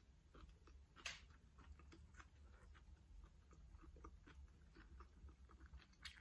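Faint close-up chewing of food, a run of small irregular clicks, with a sharper crunch about a second in and another near the end.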